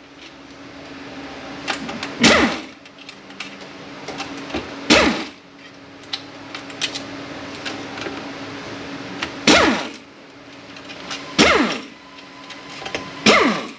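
A power tool spinning bolts out of a transmission plate in five short bursts, each winding down in pitch, with small metal clicks of parts being handled in between.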